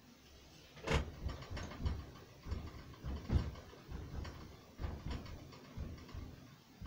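An irregular series of knocks and thumps on household objects, the loudest about a second in and another a little after three seconds.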